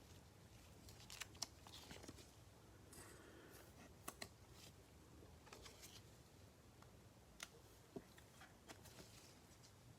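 Faint, scattered clicks and light rustling from trading cards being handled and shuffled, with a few sharper taps about a second in, near the middle, and around seven to eight seconds in.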